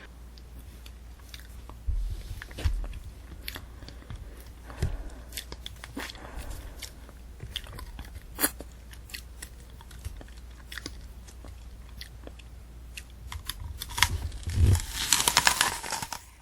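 Close-miked chewing of a candy apple: the hard sugar shell cracking and the crisp apple crunching, with scattered sharp cracks and a louder run of crunching near the end.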